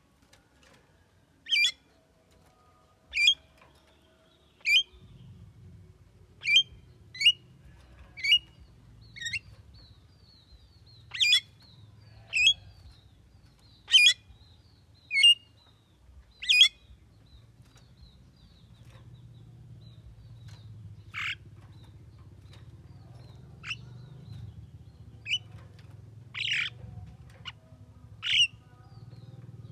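Javan myna (jalak kebo) giving short, sharp squawking calls, one every second or so, with a pause of several seconds past the middle.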